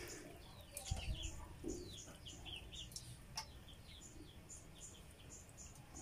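Small birds chirping in the background: a steady run of short, high, quickly falling chirps, with a couple of faint clicks.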